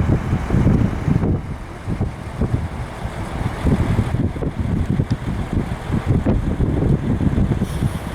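Low rumble of a passing freight train, with wind buffeting the microphone in irregular gusts.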